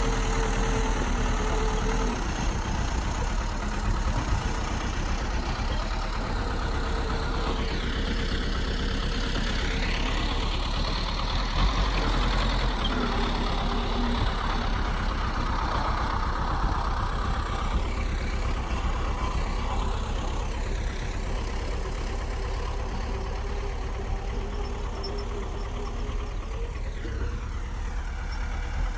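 Bulldozer's diesel engine running steadily, a low rumble with a steady whine held through it.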